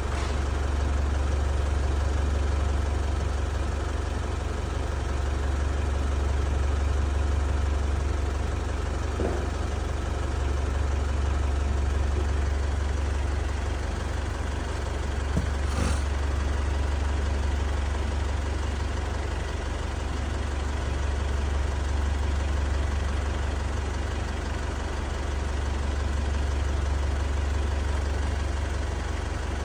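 Isuzu D-Max diesel engine idling steadily with a deep, even hum. Its fuel rail pressure is swinging between 200 and 700 bar at idle, part of a hard-start and stalling fault. A single short click sounds partway through.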